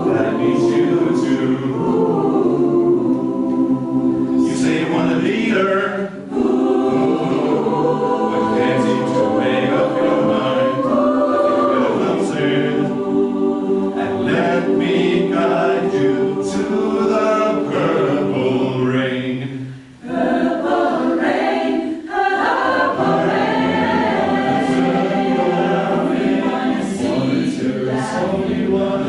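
A choir singing a song in several voice parts. There is a short break about 6 s in and a longer pause near 20 s before the singing resumes.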